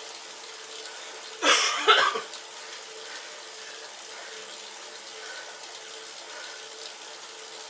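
Steady whirring rush with a low hum from an indoor bike trainer setup running under a rider's hard effort. About a second and a half in, a loud, short rush of noise breaks over it for under a second.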